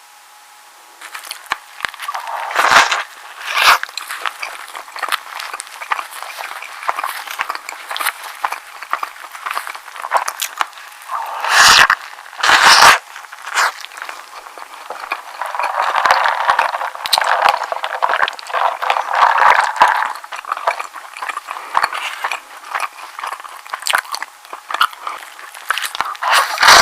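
Close-miked crinkling, crackling and scraping handling sounds, dense with small clicks, swelling louder a few times, typical of food and its wrapping being handled and unwrapped at the start of an eating recording.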